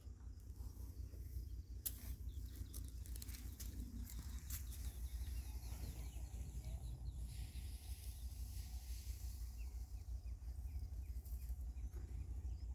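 Birds chirping over a steady low rumble, with a few sharp clicks about two and four and a half seconds in.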